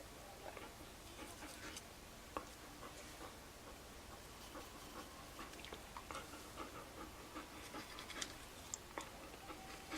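Toothbrush scrubbing a dog's teeth: faint scratchy brushing with small irregular clicks, some from the brush or teeth, mixed with the dog's breathing.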